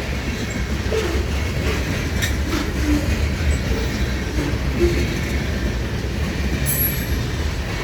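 Freight cars of a manifest train rolling past: a steady, loud rumble of steel wheels on rail with a few light clicks, and a brief high squeak about three-quarters of the way through.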